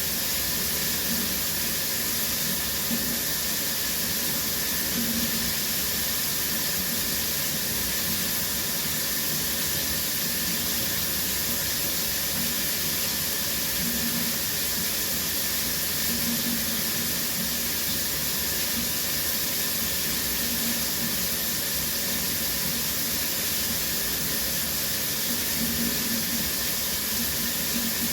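Shower running steadily, water spray hissing and falling in a small, echoing tiled bathroom.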